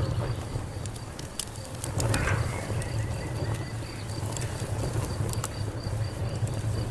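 Fire crackling: scattered sharp pops and snaps over a low, steady rumble of burning.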